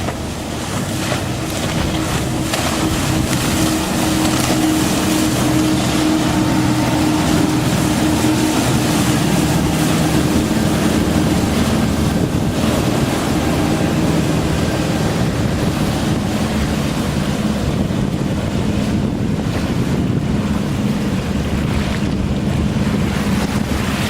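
Police patrol boat's engines running at speed, a steady drone whose pitch shifts slowly, over the rush of water from the hull wash and wind on the microphone.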